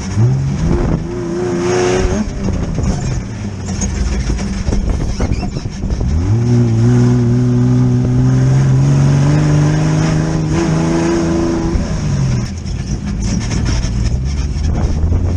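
Air-cooled Volkswagen engine of an off-road Baja Bug buggy revving under load: a short rise in pitch near the start, then a climb about six seconds in that holds steady for several seconds before dropping back.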